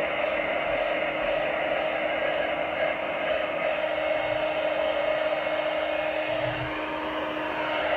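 Steady motor whir with an even hiss and a constant low hum, dipping slightly near the end.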